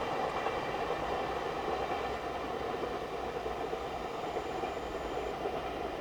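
A train running along the Hokuriku Main Line, a steady rolling noise of wheels on rail that holds level without breaks.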